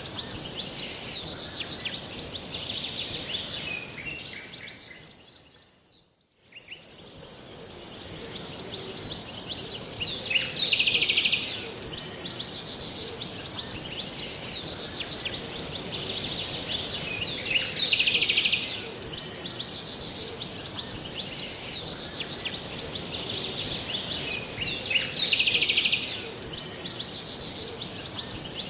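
Birds chirping in a dense chorus over a steady background hiss. The sound fades almost to nothing and back about six seconds in. Later, three loud, high buzzy trills of about a second each come roughly seven seconds apart.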